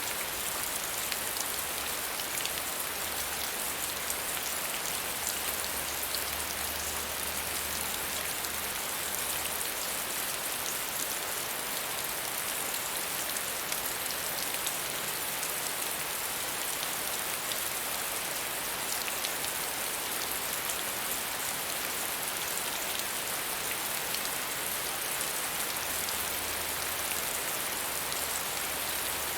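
Steady medium rainfall, a dense even hiss of drops with fine individual patters on a hard surface.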